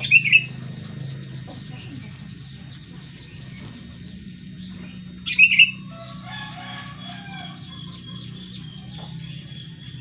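Birds chirping with quick repeated high notes throughout. Two loud short calls, each with a double peak, come at the start and about five seconds in, with a run of lower calls just after the second. A steady low hum sits underneath.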